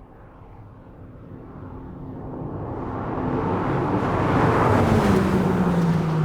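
Porsche 911 R's 4.0-litre flat-six approaching and passing by. The sound of tyres and engine builds over several seconds, and the engine note drops in pitch as the car goes past near the end.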